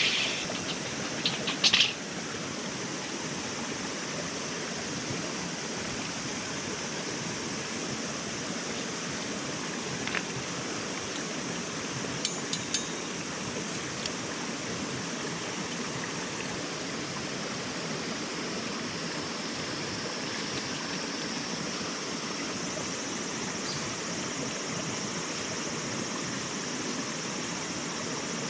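Steady rushing noise, like flowing water, with a few short clicks near the start and a couple more about twelve seconds in.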